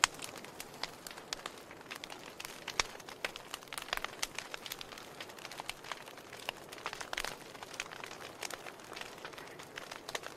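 Wood fire crackling, with a soft steady hiss under irregular sharp pops and snaps, one loud pop right at the start.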